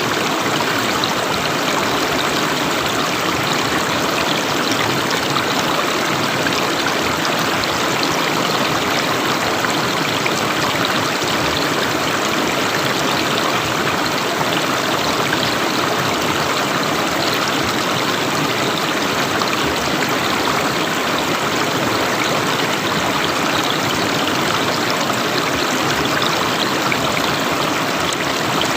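River water flowing steadily, a constant rushing with no breaks or changes.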